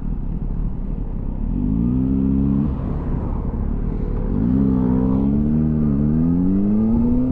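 A 2007 Kawasaki ZX6R's inline-four engine, fitted with a Yoshimura carbon end can, pulls away and rises in pitch. A gear change breaks it about two and a half seconds in, then it pulls up again with a couple of brief dips.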